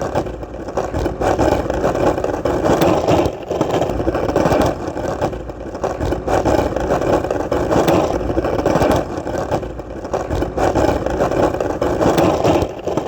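Skateboard wheels rolling on hard ground: a steady rumble that swells and eases every second or two, with frequent short sharp clicks.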